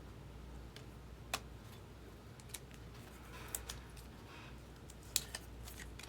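Trading cards being handled and flipped through: a handful of short, sharp clicks and snaps of card stock, the loudest about five seconds in, over a faint low hum.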